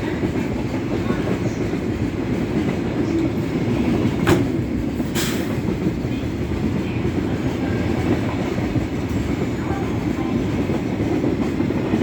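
E257-series electric multiple-unit train running along the platform, a steady rumble of wheels and running gear. A sharp click comes about four seconds in and another a second later.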